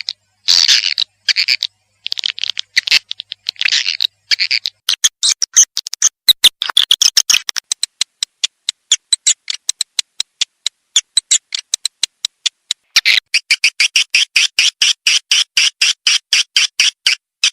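Recorded swiftlet calls played as a lure: bursts of high twittering, then rapid trains of sharp clicks that grow denser about thirteen seconds in. This is the call sound used to draw edible-nest swiftlets into a bird house.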